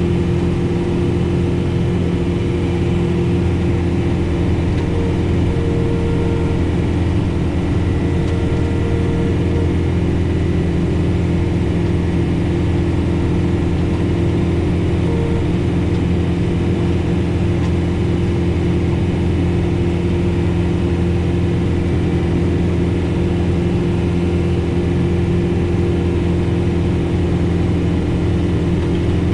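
John Deere 4066R compact tractor's diesel engine running at a steady speed, heard from inside the cab.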